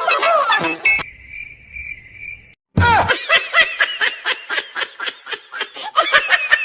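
Cartoon sound effects: a crickets-chirping effect for a second or two, then a long run of high-pitched, sped-up giggling laughter, about five bursts a second, cut off suddenly at the end.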